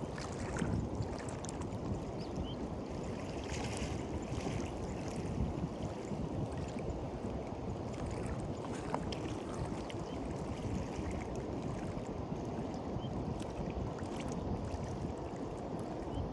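Small waves washing onto a beach, with fizzing surges now and then, over a steady rumble of wind on the microphone.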